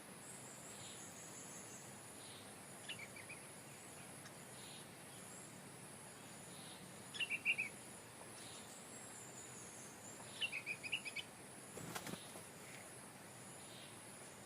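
Stripe-throated bulbul singing three short phrases of a few quick notes, over a steady high drone of insects. A single sharp click near the end.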